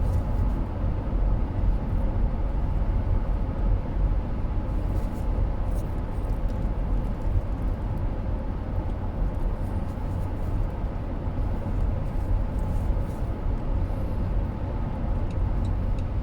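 Steady low road and engine rumble inside a moving car's cabin, with a few faint light clicks.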